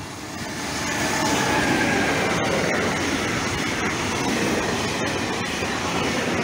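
Intermodal freight train passing close: the sound swells over the first second as the locomotive arrives, then holds as a steady rolling rumble of container and tank-container wagons going by on the rails.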